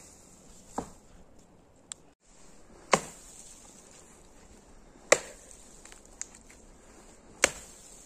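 Wood being chopped with an axe: four sharp strokes about two seconds apart, the first lighter and the other three heavy.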